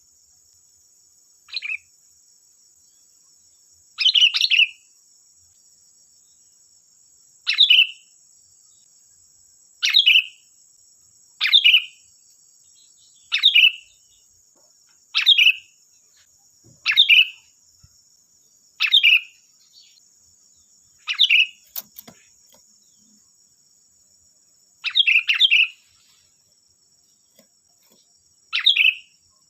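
Sooty-headed bulbul (kutilang) giving short, bright call phrases every couple of seconds, each under a second long, a few of them doubled. A faint steady high-pitched hiss runs underneath.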